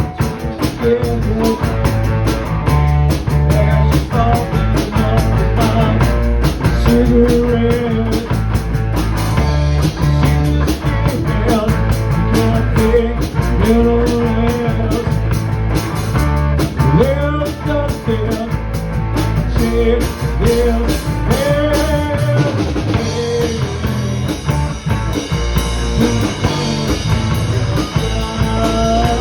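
Rock band playing an instrumental passage: drum kit keeping a steady beat under bass and guitar, with a lead line that bends up and down in pitch.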